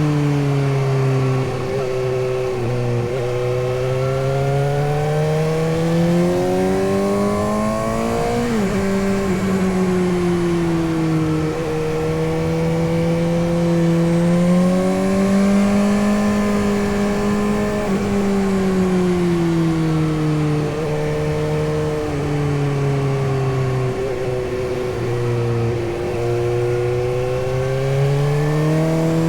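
Suzuki GSX-S750's inline-four engine under way, its pitch rising and falling with the throttle. There are a few sudden drops and jumps in pitch, as at gear changes, with a sharp drop about eight seconds in.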